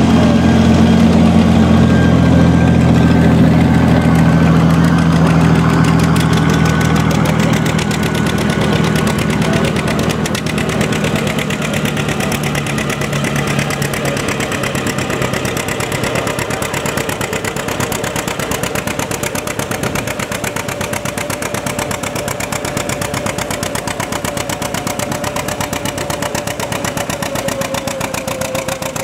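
John Deere tractor engine running with a rapid, even firing beat. It is loud at first and grows gradually quieter over the first half.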